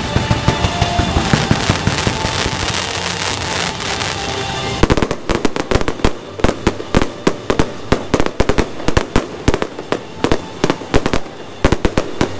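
Aerial fireworks display. A dense crackle and hiss runs for the first few seconds, then from about five seconds in comes a rapid run of sharp bangs, several a second, as the shells burst.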